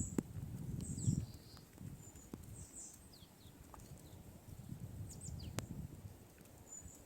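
Small birds chirping: short, high, falling notes scattered here and there, over low muffled rumbling that swells near the start and again around the middle.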